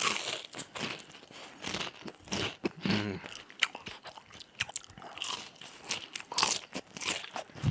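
Close-miked crunching and chewing of battered deep-fried squid: a run of short, sharp crackles of crisp batter breaking between the teeth, bite after bite.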